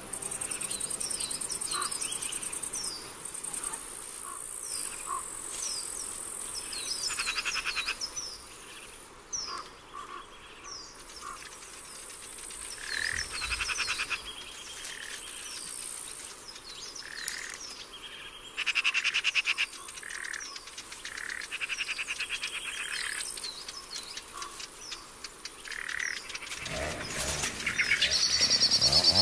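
Forest ambience: a steady high insect buzz under many short, repeated bird chirps, with several bouts of rapid pulsed frog-like calls. Near the end a louder sound cuts in and rises in pitch.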